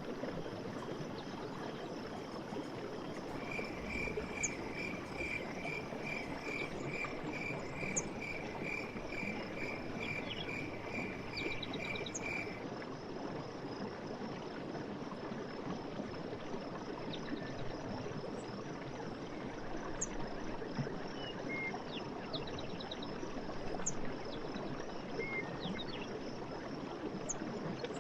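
Night forest ambience: a steady high insect trill over an even rushing background, with a repeated piping call about twice a second that starts a few seconds in and stops near the middle, and scattered short chirps.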